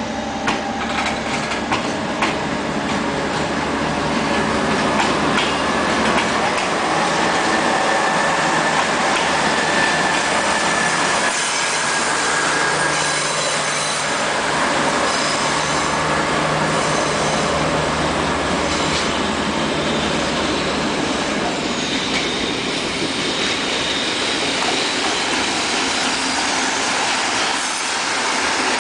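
Freight train of container flatcars rolling past at speed, a steady heavy rumble with wheels clacking over rail joints and a thin high squeal of steel wheels on rail.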